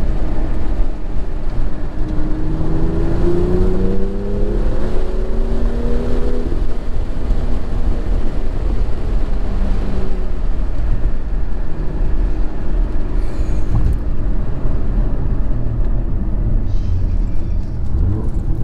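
BMW M2's turbocharged straight-six engine accelerating, its pitch rising between about two and six seconds in, then running at a steadier pitch over a constant low rumble of the car on the road.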